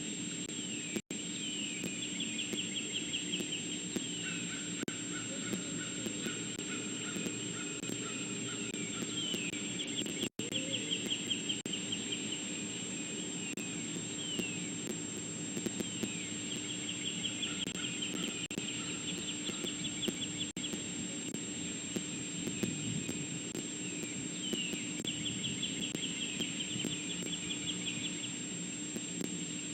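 A songbird singing: a few quick down-slurred notes run into a fast trill, and the phrase repeats about every seven or eight seconds. It sounds over a steady electrical hum, and the sound cuts out briefly twice.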